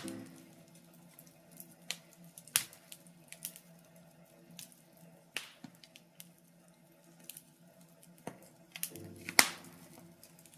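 Birch logs burning in a fireplace, crackling with scattered sharp pops; the loudest pop comes about nine and a half seconds in.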